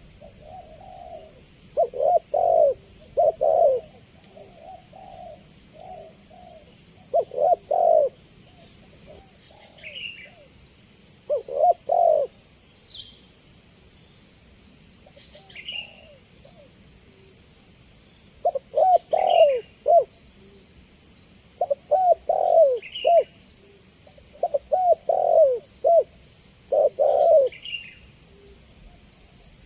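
Spotted doves (tekukur) cooing: loud phrases of a few rapid coo notes repeat every few seconds with short gaps between. Faint short high chirps come about every three seconds over a steady high hiss.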